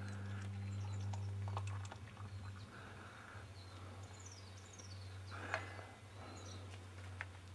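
Faint birdsong: short high chirps and a quick descending run of notes, over a steady low hum, with a single soft knock about five and a half seconds in.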